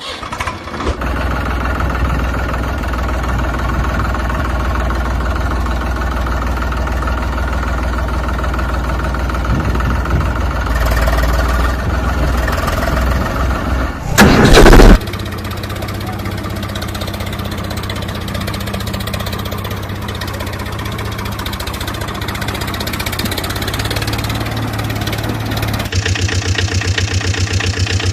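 Tractor diesel engine running steadily, with a loud burst lasting about a second halfway through, and a quicker, even pulsing near the end.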